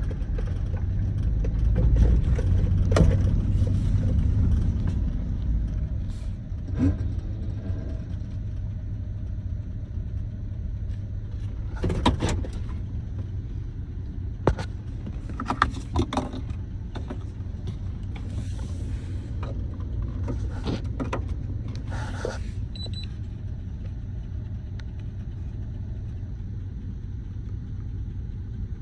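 A 4.8 LS V8 running with a low rumble, louder for the first several seconds and then settling steadier, with a few scattered clicks and knocks. Its check engine light is flashing, the usual sign of an active misfire.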